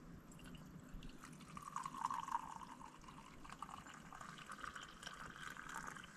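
Faint sound of water pouring or trickling, starting about a second and a half in and going on, with small clicks and drips.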